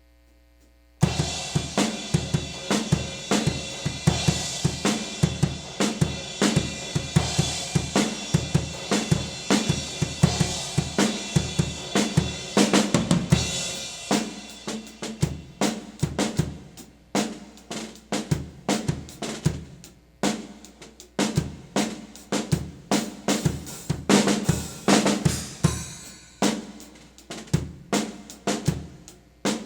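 Drum kit played with an 18-inch Wuhan Lion china cymbal, starting suddenly about a second in after a mains hum: a busy groove of kick and snare under a dense cymbal wash for the first half, then sparser, separated hits and cymbal crashes with short gaps.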